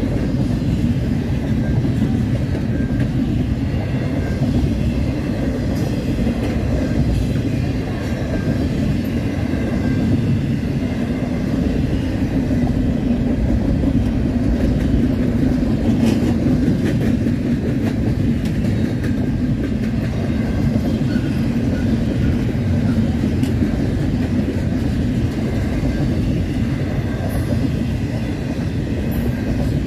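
Double-stack intermodal train of container well cars rolling past at speed: a steady low rumble of steel wheels on rail with rattling and clickety-clack from the cars.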